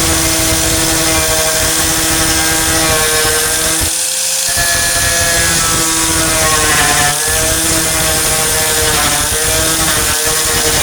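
A 4-1/2 in. angle grinder with a thin cut-off disc running at high speed, cutting through the rusted sheet steel of a truck tailgate. Its whine sags in pitch several times as the disc bites into the metal and recovers as the load eases.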